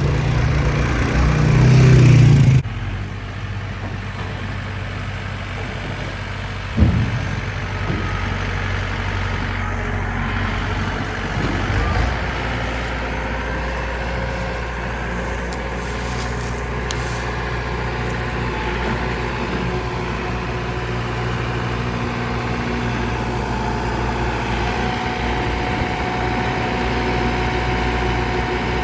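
Tractor engine running steadily under load, after a sudden cut about two and a half seconds in; a single knock comes about seven seconds in.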